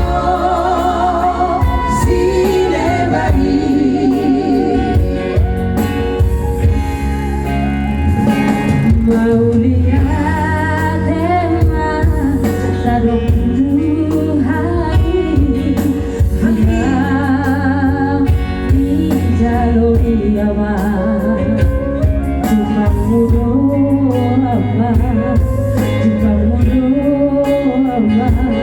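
A singer singing a slow Batak song with heavy vibrato over sustained instrumental accompaniment.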